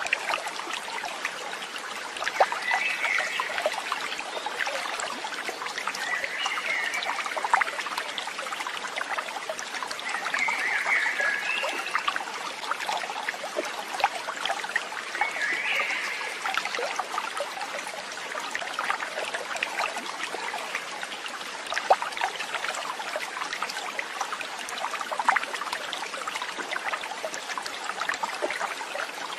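A stream of water trickling and splashing steadily, with a few short, higher-pitched chirps over it in the first half.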